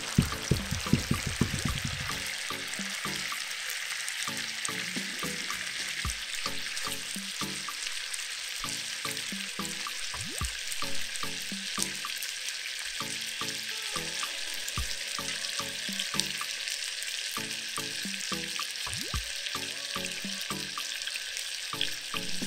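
Chicken wings frying in a pot, a steady sizzling hiss, with background music playing over it.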